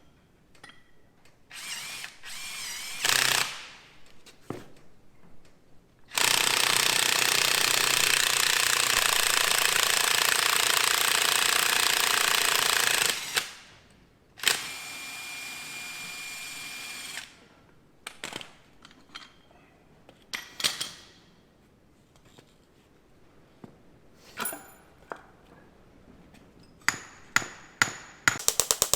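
Power impact wrench running in one long burst of about seven seconds, then a shorter, quieter run of about three seconds, with scattered clicks and knocks of tools and metal parts; bolts are being taken off a corn head's gearbox. A fast run of clicks comes near the end.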